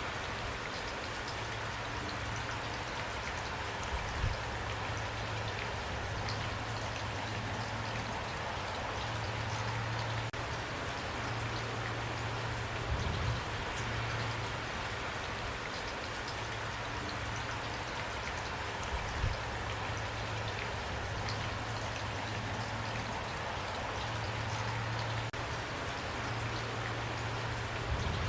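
Steady rain falling, a dense hiss of drops with a few louder thuds scattered through it.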